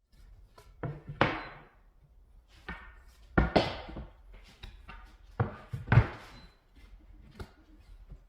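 Sharp knocks on solid wood, struck in quick pairs at regular spacing about every two and a half seconds, each with a short ringing tail, then a single knock near the end.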